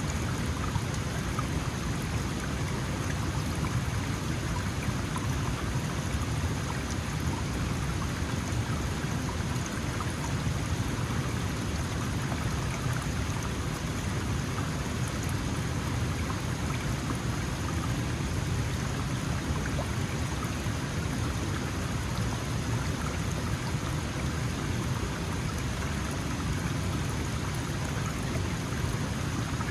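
Small mountain stream flowing steadily, water running and splashing over rocks.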